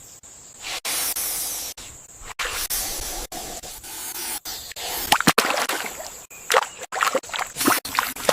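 Water splashing and spraying in short noisy stretches, broken by several abrupt cuts.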